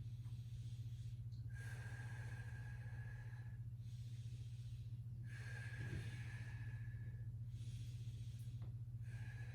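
A person breathing deeply and slowly: three long breaths of about two seconds each, with pauses between. A steady low hum runs underneath.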